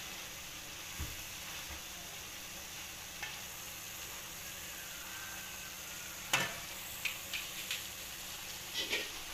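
Chicken, peas, carrots and capsicum sizzling in a hot kadhai (wok) as a spatula stirs them in pepper and salt. A sharp clatter of the spatula against the pan comes about six seconds in, with a few lighter clicks after it.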